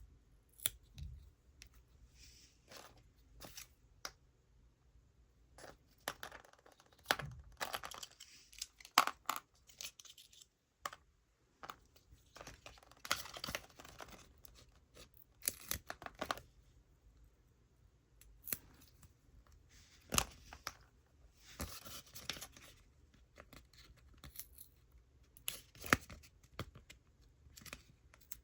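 Toy packaging being handled and torn open by hand: irregular tearing and crinkling rustles with scattered sharp clicks and taps.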